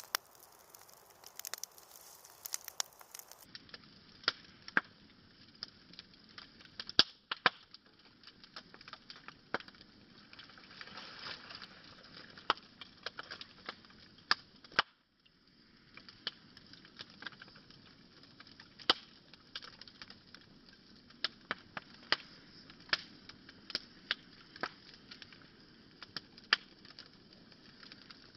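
Wood fire crackling, with irregular sharp pops and snaps over a low steady hiss, heard slowed down.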